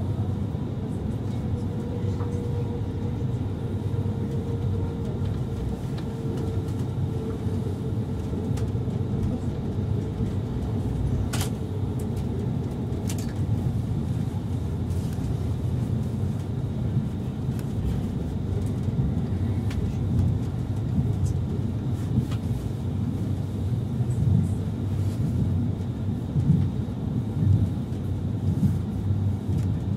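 Railway passenger coach running along the track, heard from inside: a steady low rumble of wheels on rails. A faint hum fades out within the first several seconds, two sharp clicks come about 11 and 13 seconds in, and uneven louder knocks come in the last several seconds.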